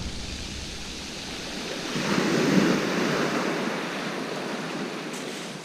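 Sea waves breaking and washing up the beach, with one wave swelling louder about two seconds in and then easing off.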